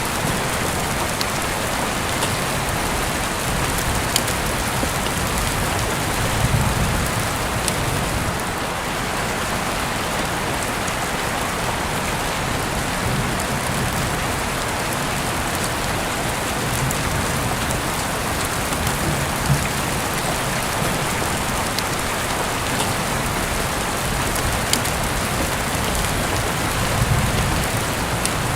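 Steady heavy rain, a dense even hiss, with scattered sharp drip ticks. Soft low swells come and go a few times.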